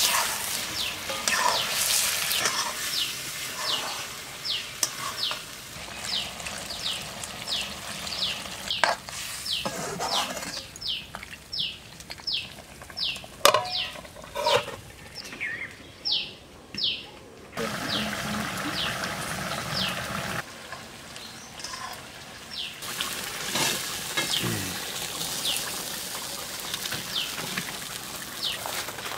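A small bird chirping over and over, short high falling notes about twice a second, over the low sizzle and crackle of food cooking on a wood fire. There are a few sharp knocks in the middle, and the chirping pauses briefly and then resumes.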